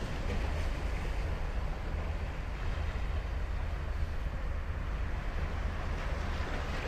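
Ocean surf breaking and washing on a sandy beach, a steady wash of noise with a deep rumble underneath and wind buffeting the microphone.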